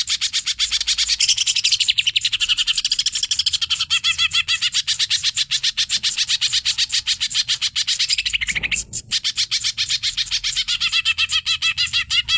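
Green leafbird (cucak ijo) singing an unbroken, rapid run of high chattering notes, many per second, with a brief break about nine seconds in.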